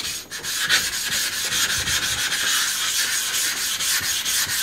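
Atoma 400 diamond plate rubbed back and forth over a wet, coarse 220-grit vitrified sharpening stone in rapid, even strokes of about five a second, a gritty scraping hiss. The stone's surface is being cleaned and opened up, raising slurry.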